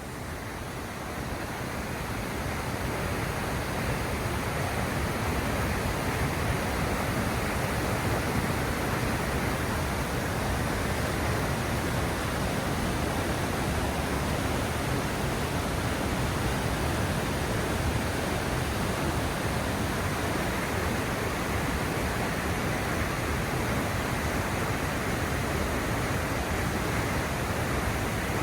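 Iguazu Falls: a steady, dense rush of falling water, swelling up over the first few seconds and then holding even.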